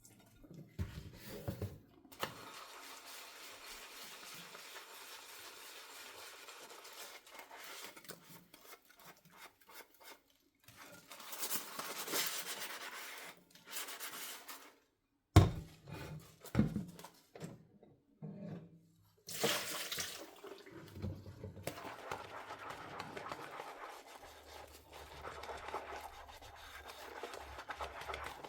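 Kitchen tap running into a sink while dishes are washed by hand, the water stopping and starting. Just past halfway the water stops for a moment and there is a sharp clack of a dish set down, then a few more knocks before the water runs again.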